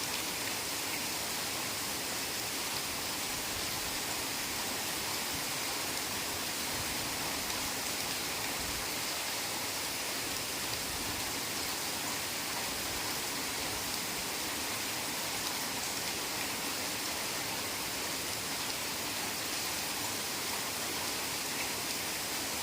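Heavy rain falling steadily, a dense, even hiss with no separate drops or breaks.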